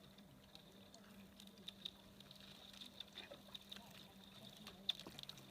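Near silence: faint scattered clicks and small water sounds over a steady low hum, with a sharper click near the end.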